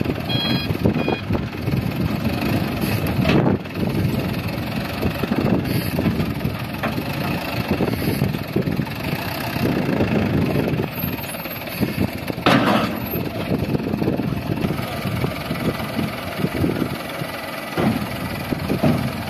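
Heavy diesel engines of a wheel loader and a dump truck running under load, with sharp knocks about three seconds in and again about twelve seconds in. A reversing alarm beeps briefly at the start.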